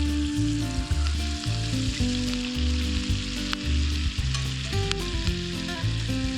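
Food sizzling as it fries in a pan, a steady crackling hiss, under background music with stepping bass notes and a simple melody.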